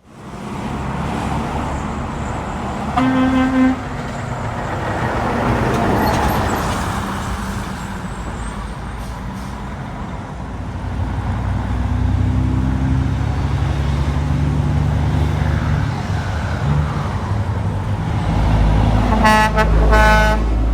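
Highway traffic passing, with a short horn toot about three seconds in. A heavy truck's engine rumbles closer, and a truck horn blasts in several short bursts near the end.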